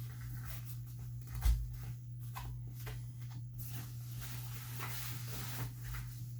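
Handling noises from playpen parts being fitted together: scattered clicks and rustles, with one dull thump about one and a half seconds in, over a steady low hum.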